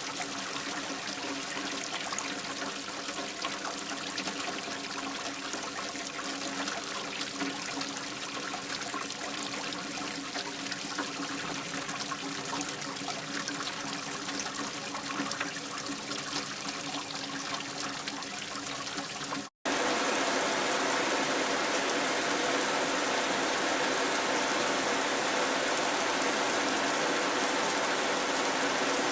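Rain falling with water trickling and dribbling. About two-thirds through the sound cuts out for an instant, then steady, louder rain noise follows.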